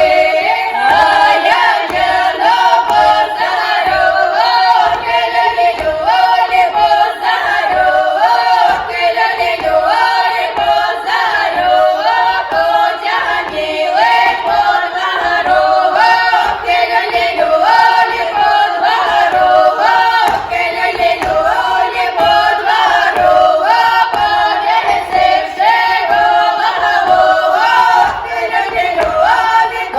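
A group of voices singing a lively folk song together, going round a short melody that repeats every second or two.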